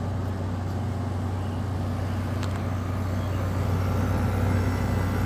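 Frigidaire 5,000 BTU window air conditioner running on high cool, with the compressor humming under the steady rush of the fan. The sound is steady and gets slightly louder about four seconds in. It runs quiet for its type.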